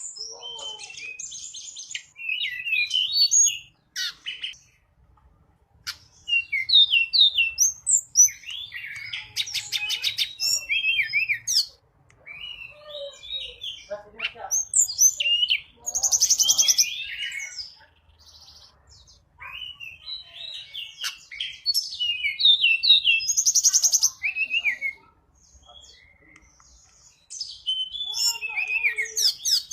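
Tledekan gunung song used as a lure call: bursts of sharp chirps, quick whistled notes and buzzy trills, delivered in phrases of a second or two with short pauses between them.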